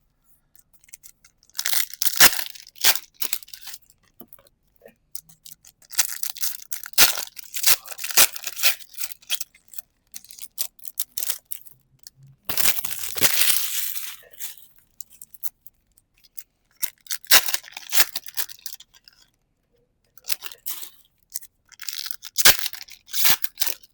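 Close-up handling of Pokémon trading cards and their packaging: several separate spells of rustling, sliding and crinkling with sharp taps, the longest and densest about halfway through, with short quiet gaps between.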